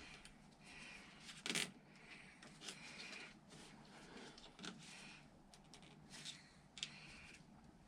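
Faint rustling and short ratcheting scratches of plastic cable ties being pulled tight by hand, with a few light knocks; the loudest comes about a second and a half in.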